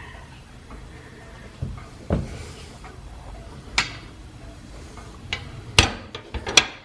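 Irregular sharp knocks and cracks at a freshly lit steam boiler fire, over a low steady rumble. They come more often and louder in the second half.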